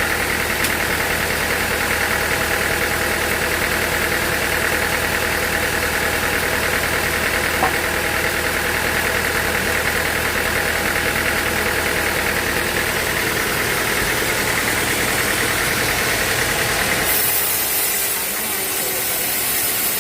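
Machinery running with a steady engine-like drone. About three seconds before the end the low hum drops away and a higher hiss takes over.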